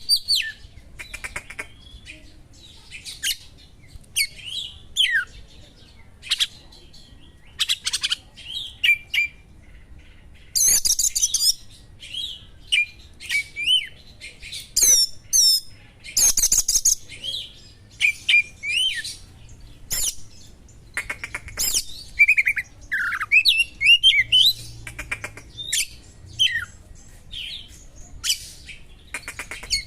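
Oriental magpie-robin (kacer) singing a fast, varied song of sweeping whistles, short chirps and buzzy rattling trills, packed with sharp small-bird call phrases, in quick bursts with short pauses between.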